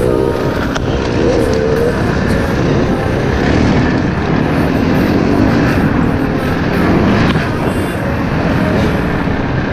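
Enduro dirt-bike engines running and revving up and down as the bikes ride a rough forest trail, the pitch rising and falling with the throttle.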